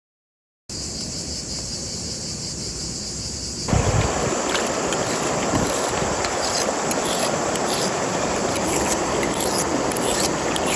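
Outdoor ambience: a steady high insect chirring starts about a second in, then a few seconds later a louder rushing noise joins it and carries on, with light scattered clicks on top.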